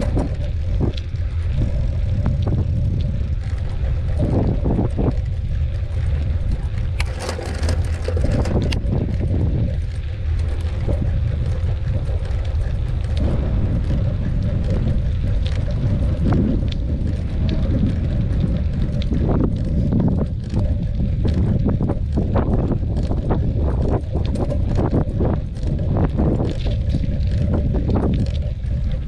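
Wind buffeting the microphone with a heavy low rumble, over the rattling and clicking of a mountain bike rolling along a dirt trail.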